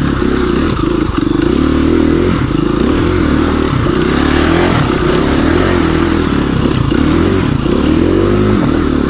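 KTM 350 EXC-F dirt bike's single-cylinder four-stroke engine under load on a hill climb, its revs rising and falling again and again as the throttle is worked.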